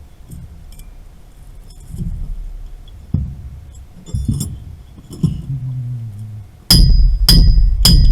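Scattered light metallic clinks and knocks of tools on metal fittings, then near the end a sudden run of loud, evenly spaced hammer blows on metal, about two a second, each ringing with a high metallic tone.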